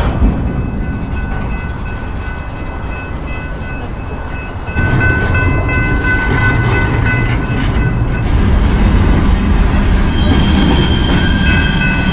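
Freight train of boxcars and double-stack container cars rolling past, its wheels rumbling on the rails, getting louder about five seconds in. Steady high-pitched tones sound over the rumble from then on.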